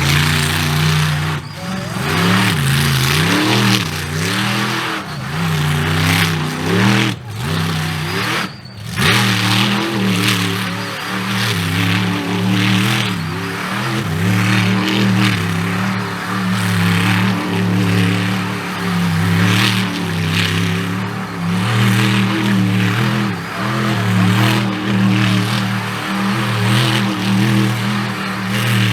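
Mega mud truck's big engine revving hard and repeatedly, the pitch swinging up and down without a pause, with two brief dips about seven and eight seconds in.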